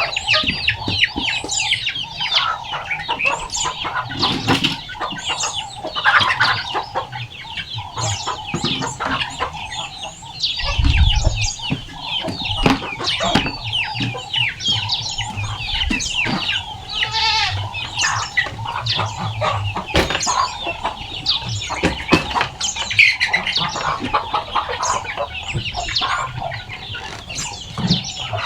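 Domestic chickens with young chicks: many high chick peeps going on continuously, with hens clucking among them. A brief low thump comes about eleven seconds in.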